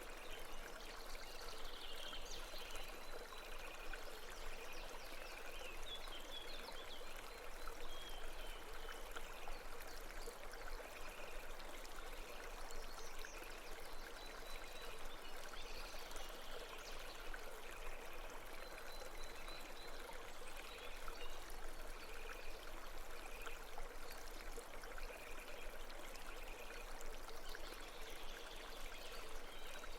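Babbling brook running steadily, with faint high chirps repeating throughout.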